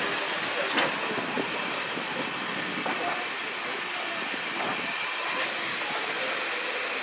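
A train running along the track: steady rumble and rattle of the carriages, with a few sharp clanks and a faint wheel squeal in the second half.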